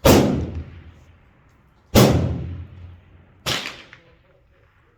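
Three rifle shots from a PSA M4-clone AR-15 in 5.56, fired while sighting in: two loud reports about two seconds apart, then a somewhat quieter one a second and a half later, each with a short ringing echo.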